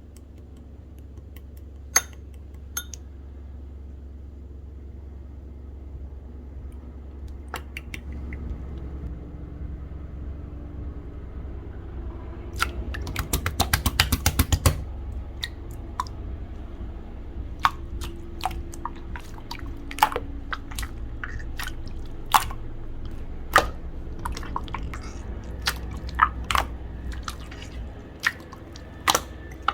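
Clear slime being pressed and stretched by hand, giving scattered sticky clicks and pops, with a quick run of clicks about halfway through and more frequent pops toward the end, over a low steady hum.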